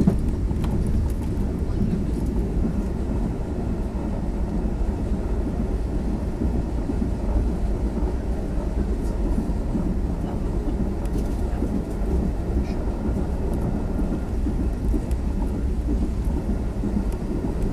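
Passenger train running, a steady low rumble that holds level throughout, with a few faint clicks.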